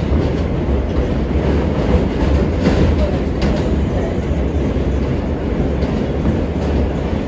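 R143 subway train running between stations, heard from on board: a steady low rumble of wheels on track, with a few sharper clacks about three seconds in.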